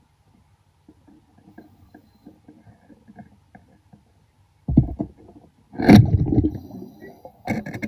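Diver's exhaled air bubbling out underwater in loud gurgling surges, three of them in the last few seconds, after a stretch of faint underwater crackle.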